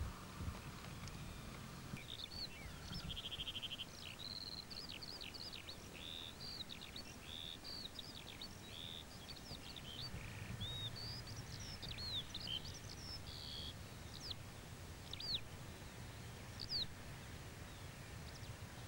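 A songbird singing a varied run of quick chirps, whistles and a short trill, starting about two seconds in and fading out near the end, over a steady outdoor hiss with a faint low rumble underneath.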